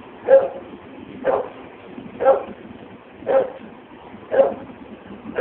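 A dog barking over and over at an even pace, about one bark a second, five times.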